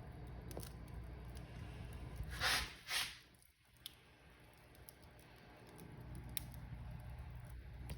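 Wood fire crackling in a fireplace: a low steady rumble with scattered sharp pops, and two louder hissing bursts close together a little before halfway.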